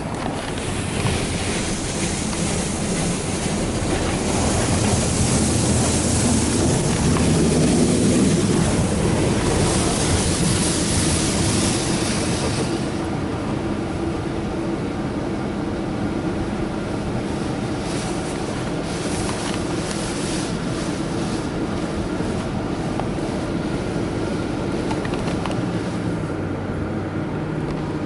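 D&S 5000 touchless car wash spraying water over the car, heard from inside the car over the hum of the wash's pumps and motors. The spray hiss is heaviest for about the first twelve seconds, then eases to a steadier wash with scattered spatters later on.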